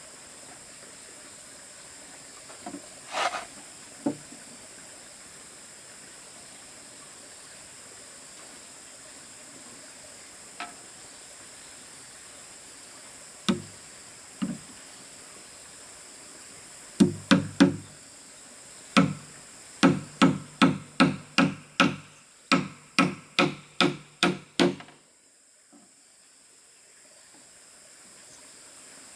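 Hammer blows nailing wood: a few scattered knocks, then, a little over halfway in, a run of steady, evenly spaced strikes at about two a second that stops suddenly.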